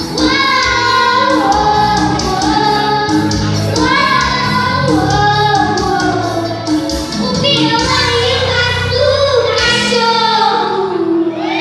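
A song: voices singing over backing music with a steady beat. The backing stops about ten seconds in, and the voice ends on a falling note.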